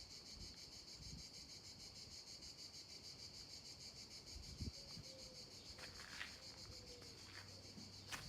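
Faint, steady, high-pitched chorus of insects trilling without a break.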